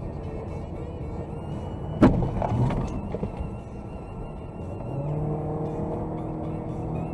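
Car collision: one sharp, loud impact about two seconds in, followed by a smaller knock, over steady car and road noise. A steady low tone starts about five seconds in.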